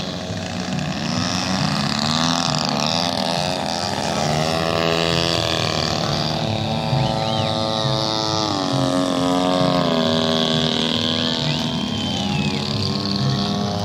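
Engines of several radio-controlled scale-model Cessna airplanes running together in flight, their pitches overlapping and drifting up and down as they pass and change throttle, with one falling in pitch about eight seconds in.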